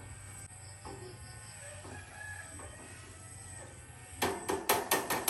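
A rooster crowing in the background, then near the end a quick run of sharp knocks and clicks, about half a dozen in a second.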